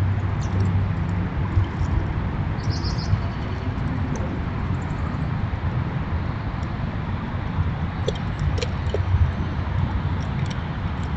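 Short, high bird chirps now and then, a little cluster about three seconds in and several more near the end, over a steady low rumble.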